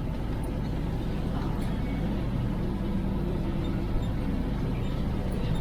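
IFA L60 truck's diesel engine running at a steady pace, heard from inside the cab.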